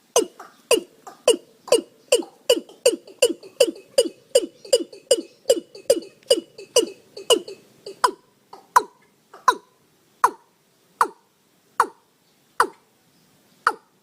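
Watercock (cúm núm) calling: a long series of short, hollow notes, each dropping quickly in pitch, repeated about two and a half times a second, then slowing to about one note every three-quarters of a second after eight seconds.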